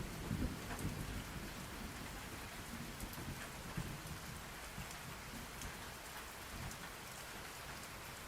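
Steady rainfall, with a low rumble of distant thunder that fades away over the first second or two.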